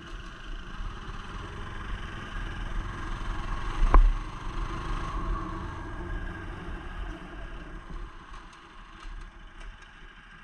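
Motorcycle engine running steadily, with one sharp knock about four seconds in; the sound grows quieter near the end.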